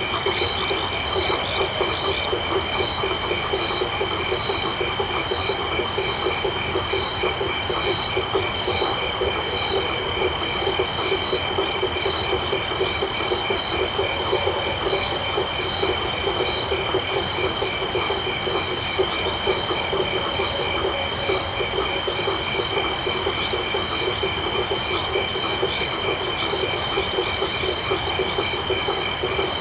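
Night chorus of frogs and crickets. A dense mass of frog calls sits low, several insects trill in steady high-pitched notes, one call pulses over them, and short high chirps come now and then.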